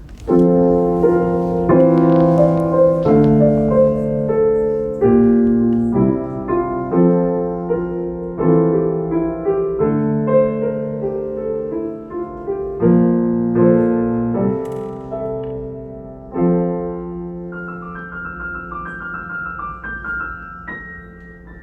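Solo piano playing an improvisation: chords struck roughly once a second, then about three-quarters of the way through, softer, quicker notes higher up as the playing grows quieter.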